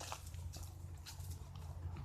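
Footsteps of a walker on a trail: one soft step just after the start and fainter ones later, over a steady low rumble.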